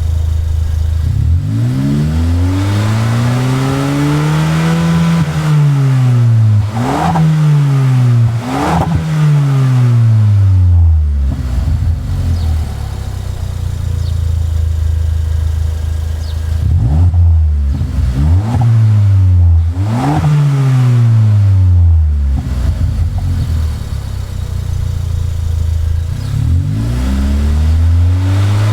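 Suzuki Swift Sport ZC33S 1.4-litre turbocharged four-cylinder free-revving at standstill through its exhaust. The revs climb slowly and fall back, then come several quick sharp blips, settling to idle, and another round of blips follows before the revs start climbing again near the end.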